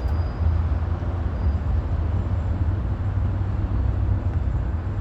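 Steady low rumble of outdoor city background noise with no distinct events.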